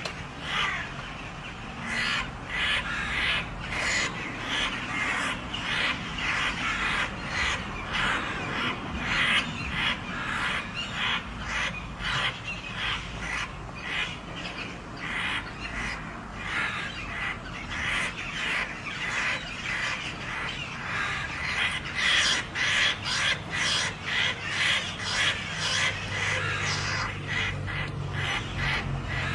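Birds fighting, giving harsh calls in quick succession, several a second without a break.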